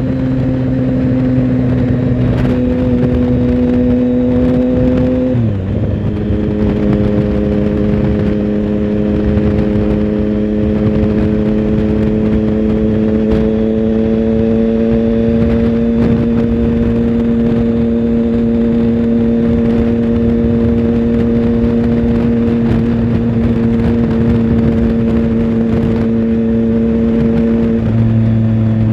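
Triumph Tiger Sport 1050's inline three-cylinder engine running at steady road speed, heard from on board. About five seconds in the engine note dips sharply and settles lower, then holds steady, rising slightly.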